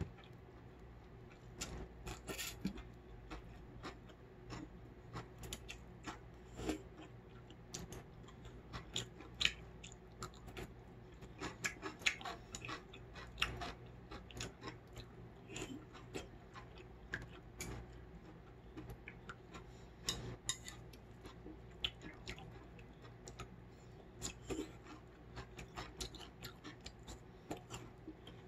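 Close-miked chewing of a mouthful of cold naengmyeon noodles with crunchy cucumber: irregular wet crunches and mouth clicks, several a second, with short pauses.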